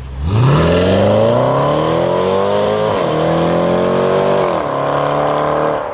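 A high-performance car engine accelerating hard, its revs climbing steadily, with two quick upshifts where the pitch drops sharply, about three and four and a half seconds in, before it climbs again.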